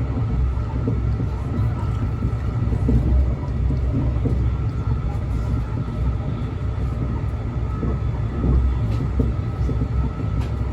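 Train running, a steady low rumble with a faint steady whine above it.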